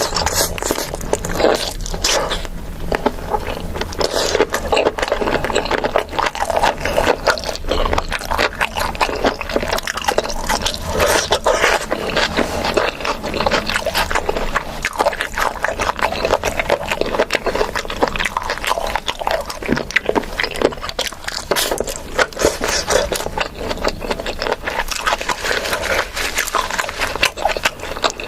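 Close-miked eating: continuous wet chewing and mouth smacking, mixed with scraping of food.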